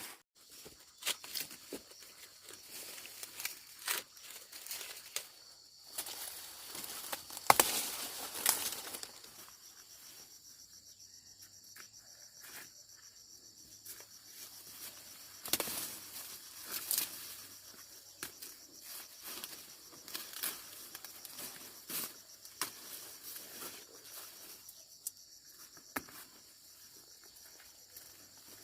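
Dry corn leaves and husks rustling, with sharp snaps as ears of corn are broken off the stalks by hand. A steady high insect drone sets in about a third of the way through.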